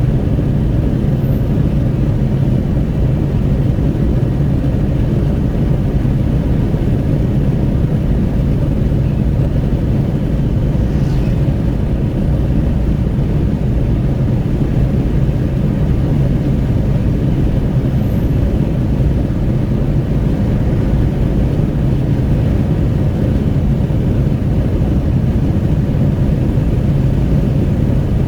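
Steady road noise inside a Renault Kwid at highway speed: wind rushing at the window over a constant low rumble of tyres and engine.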